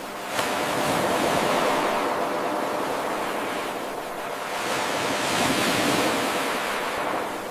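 Ocean waves washing in, from an 8-second recording looped end to end: the wave sound comes in abruptly about half a second in at the loop's restart, swells, eases a little around the middle, swells again and fades toward the end.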